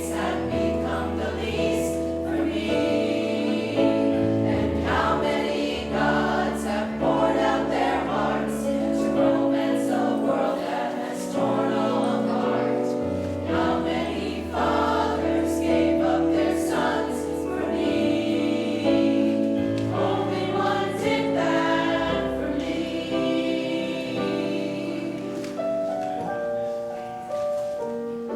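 A choir singing with accompaniment in sustained chords over deep held bass notes.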